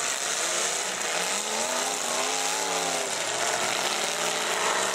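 Full-size demolition derby cars' engines running and revving, one engine rising and then falling in pitch about halfway through, over a steady background din.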